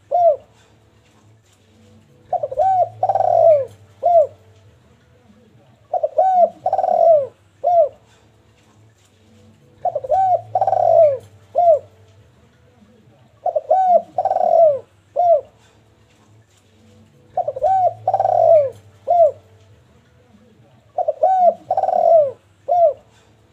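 Spotted dove (derkuku) cooing in full song: the same phrase six times, about every four seconds. Each phrase is two quick falling coos, a longer coo and a short final note.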